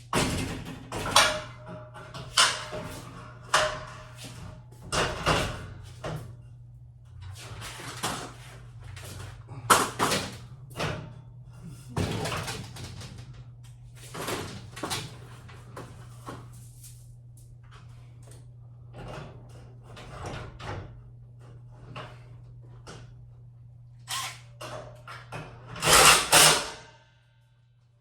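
Irregular knocks, scrapes and rustles of hands-on work, over a steady low hum that cuts off just before the end.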